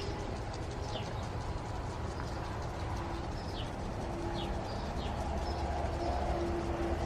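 Short, quick falling bird chirps, a handful spread through, over a steady low outdoor rumble.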